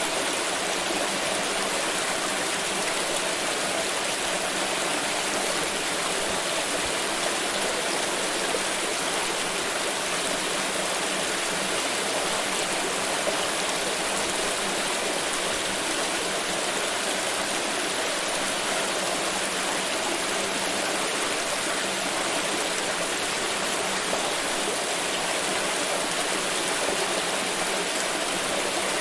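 Water pouring steadily in a continuous, even splashing rush.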